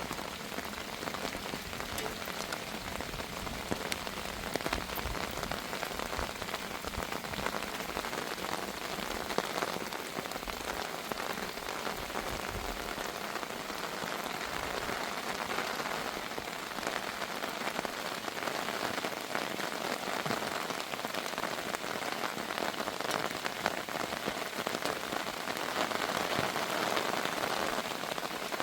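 Heavy rain falling steadily, a dense hiss of many small drop impacts, growing a little louder near the end.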